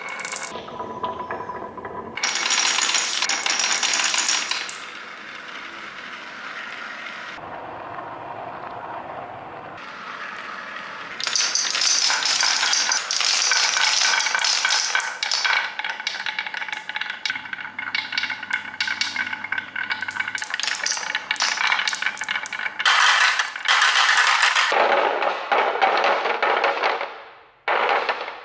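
Marbles rolling and clattering through a marble run, a dense stream of small clicks and rattles with ringing tones, in bursts with a quieter rolling stretch between them.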